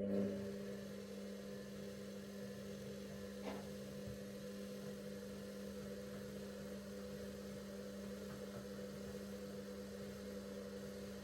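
Bauknecht WA PURE ST 14 FLD washing machine running its steam self-cleaning cycle: a steady electric hum from its motor, with a faint tick about three and a half seconds in.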